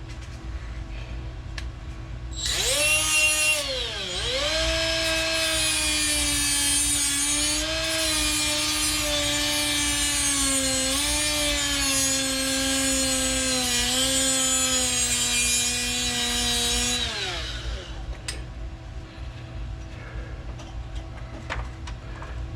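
A high-speed power cutting tool spins up and runs for about fifteen seconds, trimming the edge of a steel patch panel. Its whine drops sharply as it first bites into the metal, then sags slowly under load before it stops.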